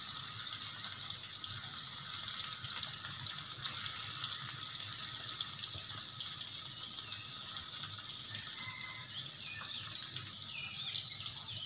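Sliced fish cake and chilli sauce sizzling steadily in hot oil in a wok, a fine even crackle.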